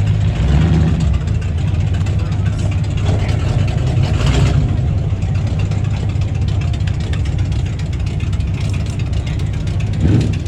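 Car engines running with a steady low rumble, with a short louder swell about four seconds in.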